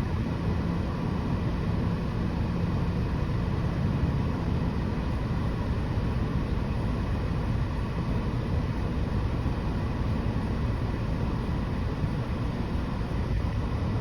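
Steady low rumble and hiss of vehicle noise heard from inside a parked car, with a faint hum in the first few seconds.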